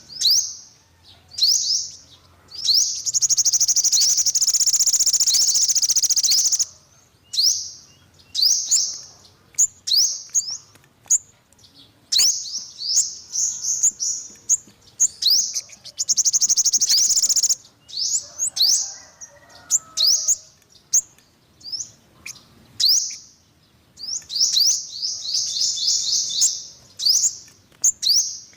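Yellow-bellied sunbird calling: a string of short, sharp, high-pitched chirps broken by three long, fast trills, the first about three seconds in, another past the middle and one near the end.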